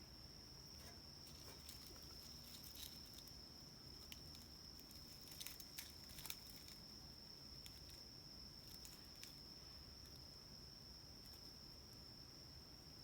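Near silence: a faint, steady high-pitched whine, with a few faint clicks about halfway through.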